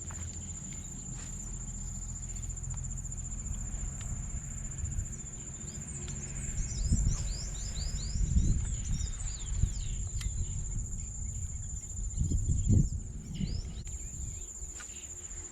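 Insects trilling in one steady high-pitched note, with many short bird chirps over it. Low rumbles come and go, loudest about halfway through and again near the end.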